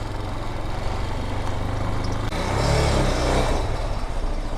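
Vitacci Raven 250 dirt bike's air-cooled 250cc engine running while ridden, steady at first, then revving up briefly about halfway through and easing off again.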